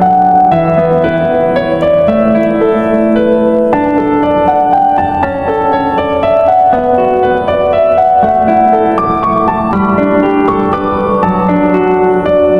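Background piano music: a calm melody of single notes and chords.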